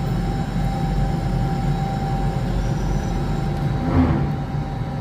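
Cabin of an Alstom Metropolis C830 metro train standing at a platform with its doors open: a steady low hum from the train's equipment, with a thin steady tone over it. A brief louder sound comes about four seconds in.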